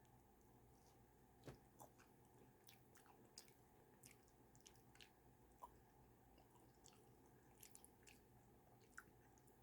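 Faint chewing of a soft chicken-and-bun sandwich, with scattered small wet mouth clicks and smacks over a low steady hum.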